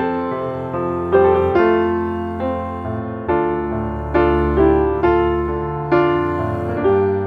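Background music: a gentle piano playing a slow sequence of notes, each struck and left to fade.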